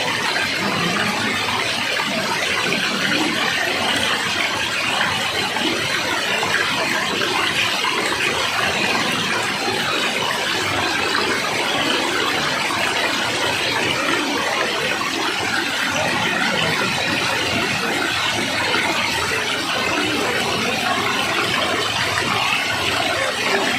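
Steady rush of falling water, as from a waterfall, even and unbroken.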